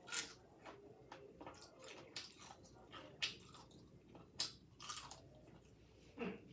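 Faint, irregular crunching and chewing of crisp breaded popcorn chicken, a sharp crunch about once a second.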